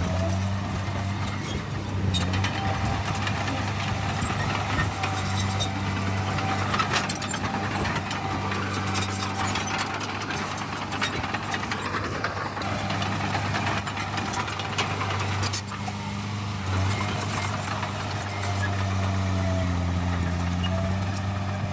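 Heavy diesel earthmoving machinery running steadily at a construction site, a low engine hum that dips and recovers in pitch near the end, with scattered clicks and knocks throughout.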